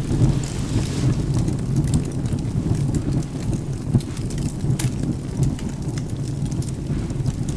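Steady rain with a low rumble of thunder, and sharp pops from a crackling wood fire now and then.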